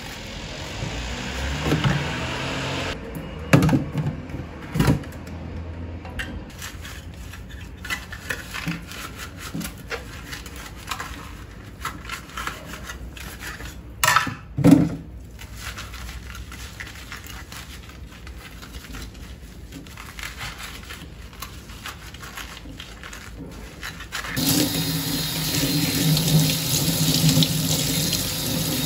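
Scattered knocks and clatter of kitchen things being handled. Near the end a kitchen tap is turned on and water runs steadily into the sink.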